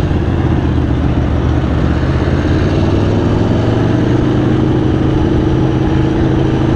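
Aprilia Tuono V4 1100's V4 engine running at low, steady revs, its pitch rising gently in the second half.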